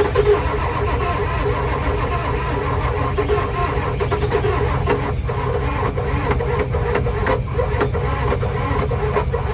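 Ford 7.3 IDI turbo diesel being cranked over on its starter motor: a steady starter whine over the churning of the engine, which does not catch. The engine has sat for years and is being primed for air in the fuel system.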